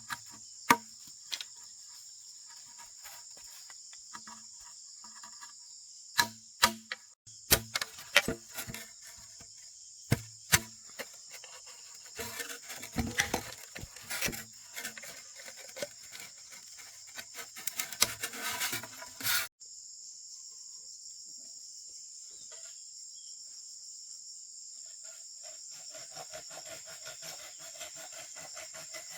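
Insects chirring steadily in a high, even drone. Over the first two-thirds come scattered sharp knocks, clatter and rubbing from hands-on work with wood or tools. These stop about 19 seconds in, leaving the insects alone.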